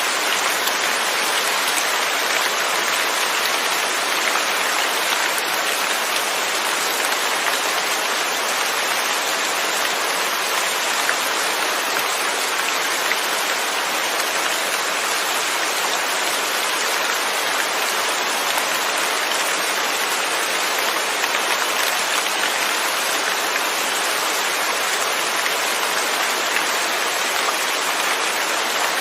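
Steady rain falling without thunder, an even hiss of drops with no breaks.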